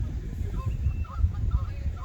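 Geese honking back and forth in short repeated calls, over a constant low rumble.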